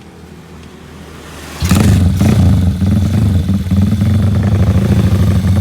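Motorcycle engine fitted with a Dos Muffler competition exhaust starting up about a second and a half in, then running at a steady, loud idle with a rapid, throbbing exhaust note.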